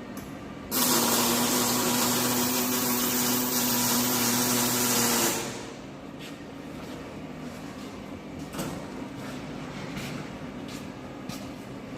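Electric welding on a steel chassis frame: a loud, steady hissing burst with a hum, starting suddenly under a second in and lasting about four and a half seconds. It is followed by a few scattered light knocks.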